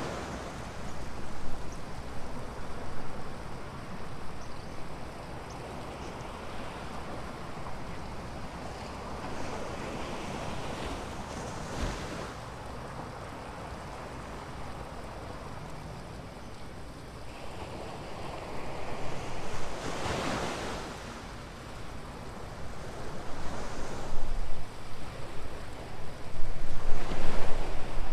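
Ocean surf breaking on a beach: a steady wash of water with a louder wave surging in every several seconds, three times. Wind buffets the microphone underneath.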